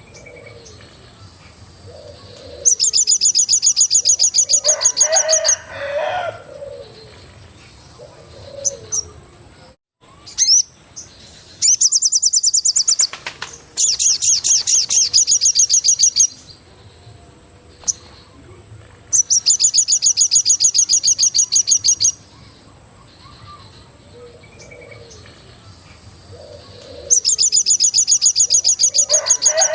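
Forest bird chorus: a loud, high, rapidly pulsed trill repeats five times, each lasting two to three seconds, with shorter lower calls between them. A faint steady high thin tone runs underneath, and the sound cuts out briefly about ten seconds in.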